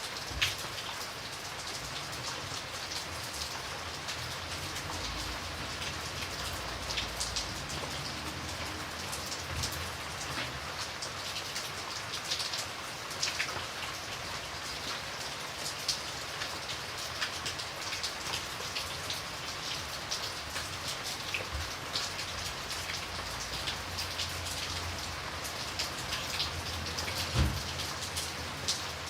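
Steady rain falling, with a continuous hiss and many individual drops ticking and tapping on a surface. A single louder low thump comes near the end.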